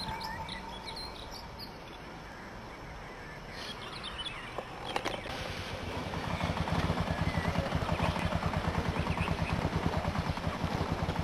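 Kawasaki KLR650's single-cylinder four-stroke engine starting about halfway through and then running with a rapid, even beat. Birds are singing before it starts.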